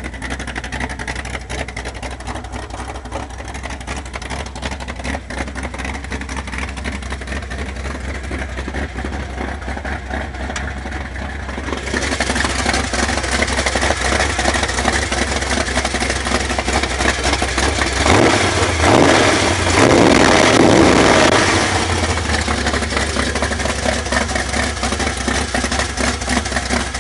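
Ford 351 Windsor V8 with open headers idling, getting louder about twelve seconds in, then revved up and back down a little after the middle before settling back to idle.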